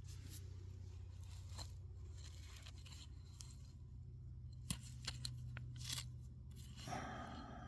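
Footsteps crunching and clicking on stony ground, scattered and irregular, over a low steady wind rumble on the microphone.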